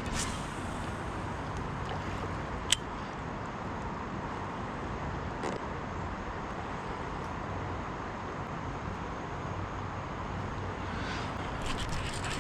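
Steady rushing of a river's current. A single sharp click comes a little under three seconds in, and there are a few small ticks near the end.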